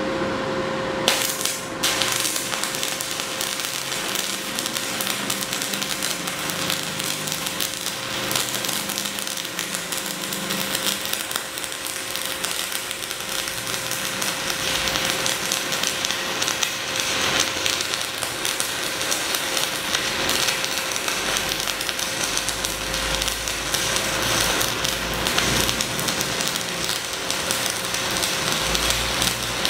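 Stick (shielded metal arc) welding with a 4 mm electrode at 180 A on a Jasic Ares 200 inverter welder: a continuous crackling, sizzling arc, with a steady tone underneath.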